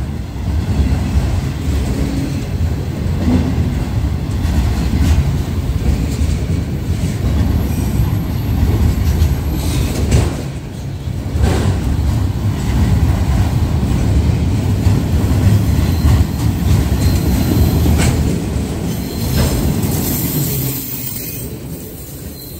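Loaded autorack freight cars rolling past: a steady, loud rumble of steel wheels on rail, with a few sharp clacks as the wheels cross rail joints, easing off near the end.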